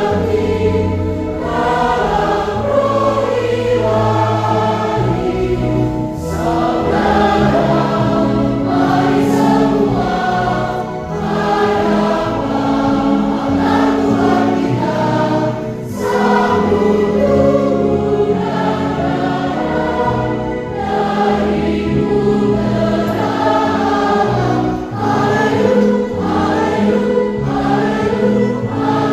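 Children's choir singing a Catholic hymn of thanksgiving, with steady low accompaniment notes held beneath the voices.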